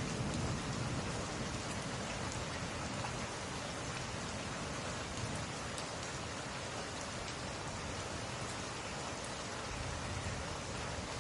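Steady, even rain falling, with a low rumble of thunder dying away just at the start.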